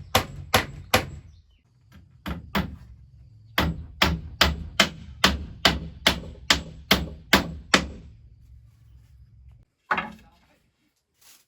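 Hammering: steady runs of sharp blows, about two and a half a second, broken by short pauses, then a single knock near the end.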